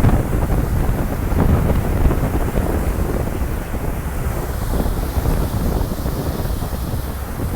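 Steady wind buffeting the microphone over the rush of water along a moving boat's hull.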